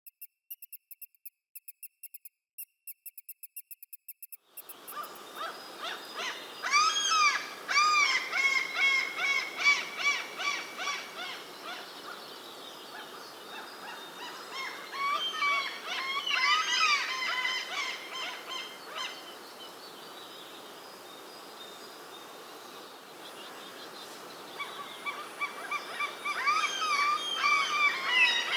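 Bird calls: a rapid run of high, thin chirps for the first four seconds or so. Then a steady outdoor background comes in, with loud repeated calls that rise and fall in pitch, coming in bunches and pausing in between.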